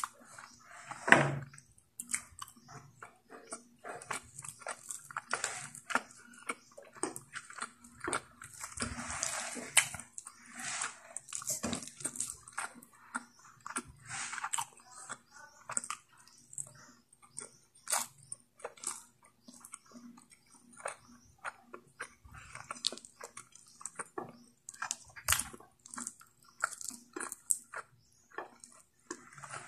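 Close-miked wet chewing and lip smacking as pork curry and rice are eaten by hand, a dense run of short clicky, sticky mouth sounds, with one louder mouth sound about a second in.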